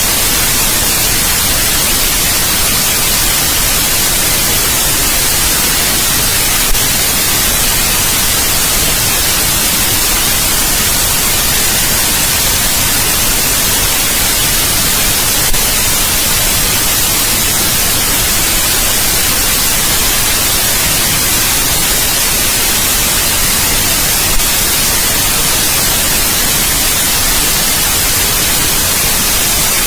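Steady synthetic white noise, an even hiss brightest in the treble, with a faint click about every nine seconds.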